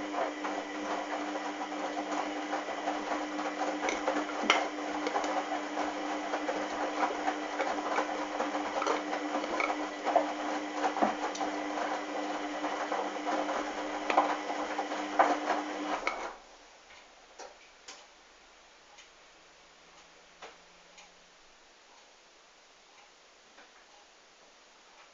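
Hoover washing machine running mid-wash: a steady motor hum with many small clicks and rattles. It cuts off suddenly about sixteen seconds in, leaving only faint occasional ticks.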